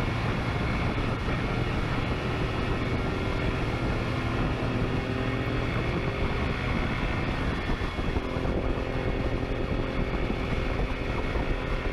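A vehicle engine running steadily at speed, mixed with wind and road noise. Its tone shifts about halfway through.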